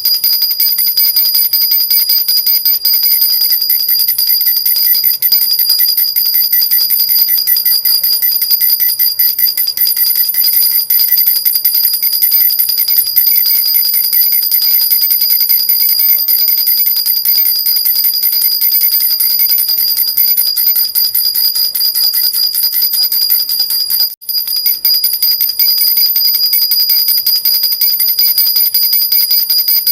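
Jhunjhuna, a metal baby rattle with small bells, shaken continuously in a fast steady jingle of high bright ringing. It breaks off for a moment about 24 seconds in.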